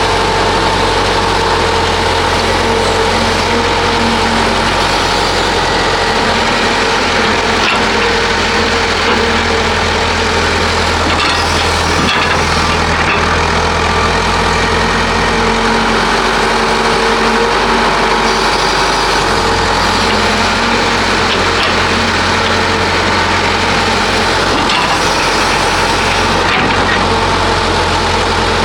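Heavy diesel machinery running steadily as an excavator loads dump trucks on a construction site, with an occasional knock.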